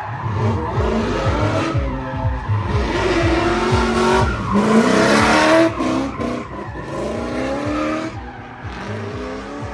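A drift car's engine revving up and down hard as it slides, with its tyres skidding and squealing. It is loudest in the middle, then drops away after about six seconds.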